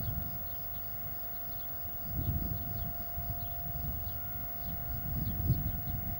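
Low rumble of a slow-moving freight train, swelling twice, under a steady high-pitched whine, with faint short chirps above it.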